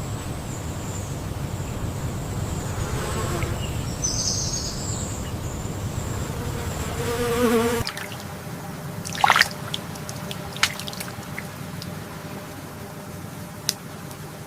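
Insects buzzing over a steady low hum, with faint water trickling. About halfway through, the low buzz cuts off abruptly, leaving a quieter background broken by a few short sharp chirps and clicks.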